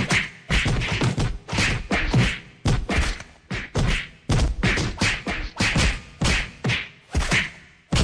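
Film-style fight sound effects: a rapid series of punch and hit impacts, each a sharp whack with a low thud under it, some with a swish, about two to three a second.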